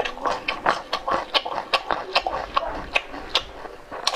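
Someone chewing food with open-mouth smacking: a rapid, irregular run of wet clicks and smacks.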